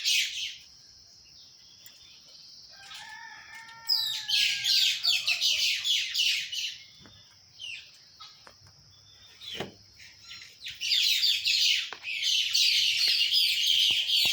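Small birds chattering in dense bursts of rapid high chirps, each burst lasting two to three seconds, with quieter gaps between them that carry a thin steady high note. A fainter, lower call comes about three seconds in.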